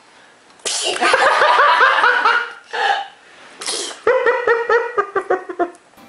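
A toddler's sudden sneeze a little over half a second in, followed by runs of laughter with short, quick pulses, broken by a couple of brief loud bursts.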